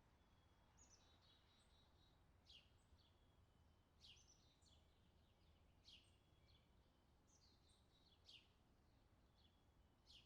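Faint birdsong: a bird repeating short, sharp falling notes every second or two, with some quicker twittering chirps, over a low steady background rumble.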